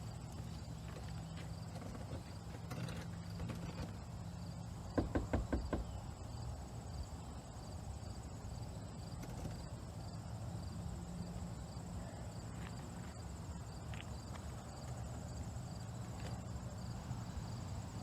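Crickets chirping steadily: a high continuous trill with a regular chirp about twice a second. About five seconds in, a quick run of five or six knocks is the loudest sound.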